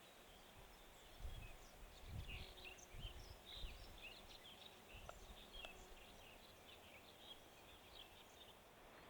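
Faint birdsong: many short, high chirps from small birds, with low gusts of wind rumbling on the microphone during the first few seconds.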